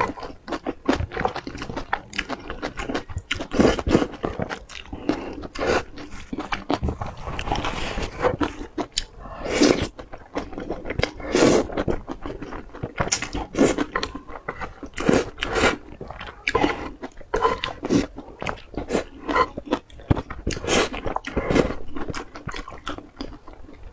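Close-miked eating: a person biting and chewing spicy pork pieces in chili oil, with many short, sharp mouth sounds a second.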